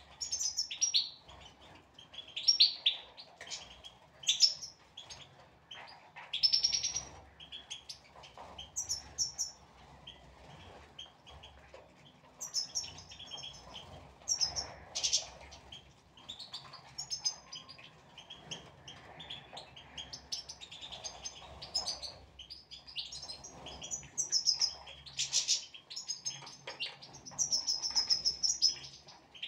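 European goldfinches chirping and twittering, a steady stream of quick high calls and short trills from several birds.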